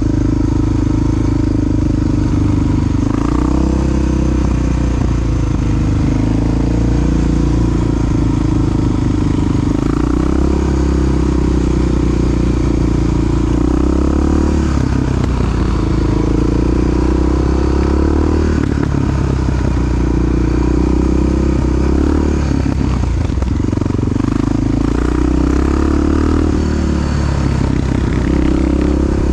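A Honda XR dual-sport motorcycle's big single-cylinder four-stroke engine running under way, its pitch dipping and rising several times with throttle changes.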